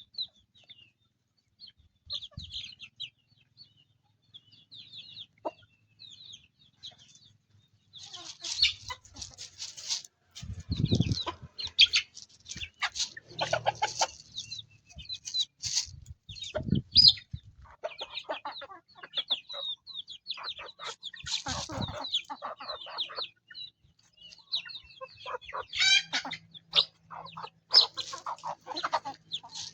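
Chickens clucking and calling, with high peeping calls. Sparse at first, then busy and dense from about a third of the way in, with a couple of low thuds among the calls.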